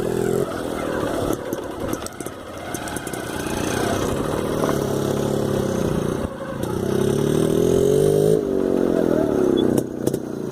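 Motorcycle engine running under way on a rough track. Its pitch climbs steadily as it accelerates about two-thirds of the way through, then drops off before easing, with scattered knocks.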